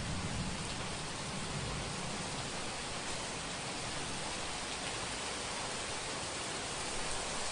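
Heavy rain falling as a steady, even hiss, with a low rumble of distant thunder fading away over the first two seconds.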